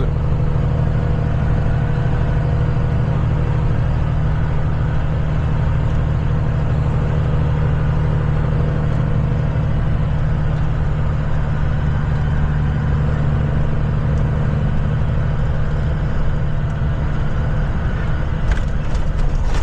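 Kenworth semi-truck's diesel engine droning steadily while driving, a deep even hum with road noise and no change in pitch.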